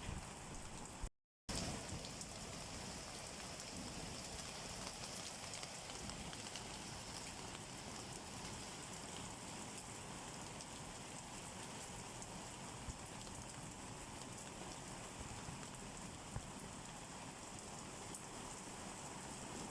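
Steady rain falling, an even hiss of drops on surfaces. The sound cuts out completely for a split second about a second in.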